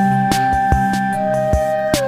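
Background music: sustained flute-like melody notes over a steady beat of about two and a half strokes a second.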